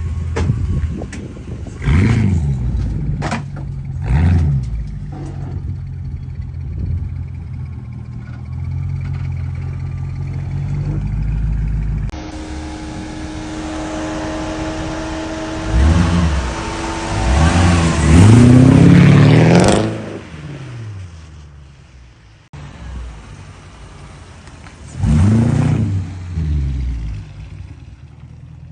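Mercedes-Benz M113 V8 engine in a W124 E-Class idling and being revved in several short blips, with one longer, louder rev about two-thirds of the way through. The sound jumps abruptly between edited clips.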